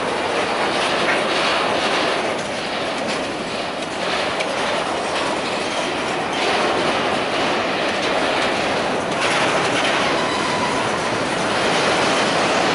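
Freight train of covered grain hopper wagons rolling past close by: a steady rumble of steel wheels on rail, with clacks as the wheelsets cross rail joints.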